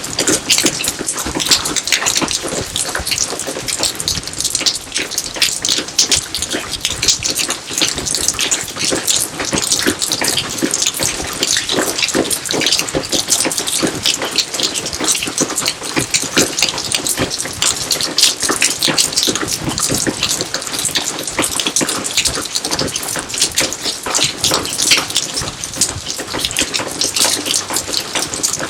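Steady rain falling onto garden surfaces, a dense, even hiss made of countless individual drop impacts.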